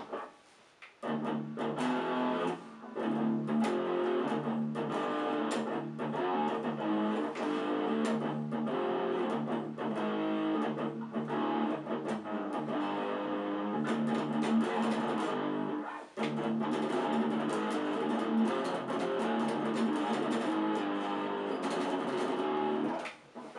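Cort X-series electric guitar playing a riff of held chords over a steady low note, with short breaks about a second in and about two-thirds through.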